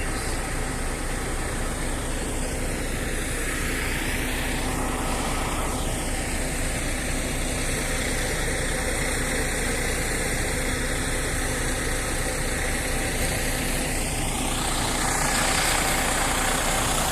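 Motor vehicle engine running with a steady rumble and noise, unbroken throughout.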